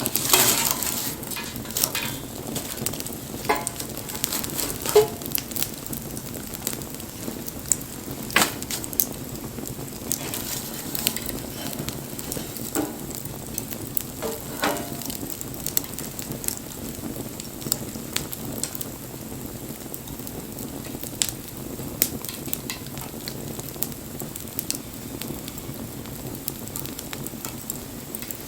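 Wood bonfire crackling, with sharp irregular pops over a steady hiss and a few brief squeaks.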